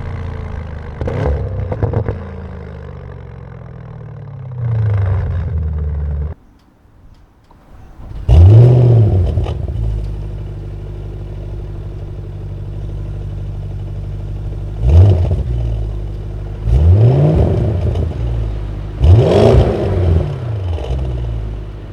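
Audi RS6 Performance's twin-turbo V8 exhaust idling with a series of short rev blips, each rising and falling. About six seconds in it drops away for a couple of seconds, then returns with a loud rev, and three more blips follow near the end.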